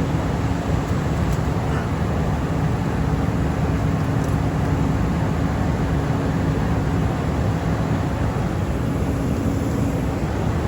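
Private jet cabin noise in flight: the steady rush of engines and airflow, with a low hum running through it.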